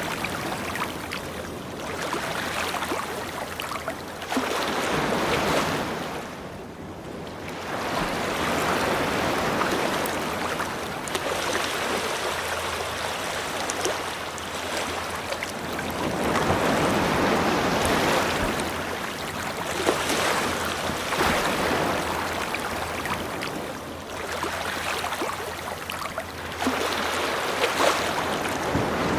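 Ocean waves washing onto a beach, the surf swelling and falling back every few seconds.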